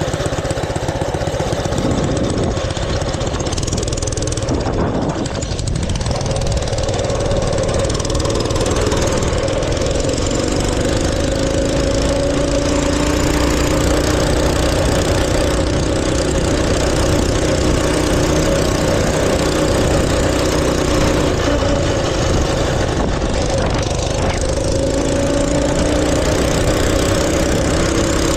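Mini bike's small engine running steadily, its pitch drifting gently up and down.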